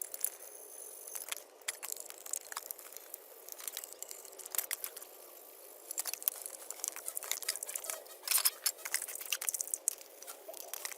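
Hand work on small metal carburetor parts: irregular clicks, taps and scraping, busiest about eight seconds in.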